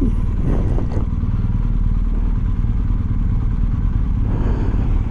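Motorcycle engine running steadily at low revs, with no revving.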